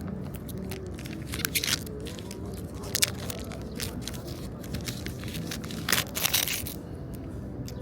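Crinkling, scraping and tearing of handled packaging close to the microphone, with irregular sharp crackles, loudest about a second and a half, three and six seconds in.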